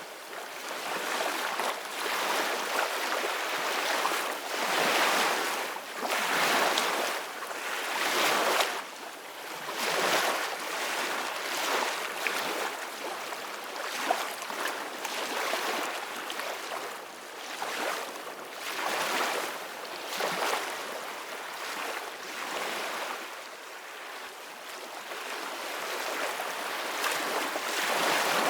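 Sea waves washing and breaking, a steady rushing hiss that swells and ebbs every second or two.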